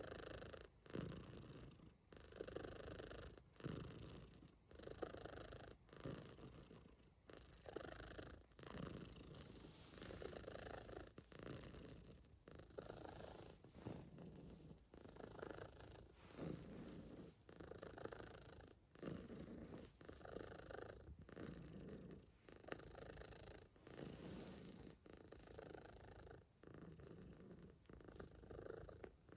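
Calico cat purring, rising and falling in swells about once a second as it breathes in and out.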